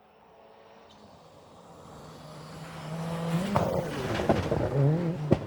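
Racing car approaching and growing louder over about three seconds, its engine revving up and dropping back again and again through gear changes, with a few sharp cracks in the louder second half.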